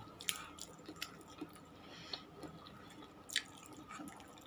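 A person chewing food close to the microphone, with small wet mouth clicks and a sharper click about three and a half seconds in.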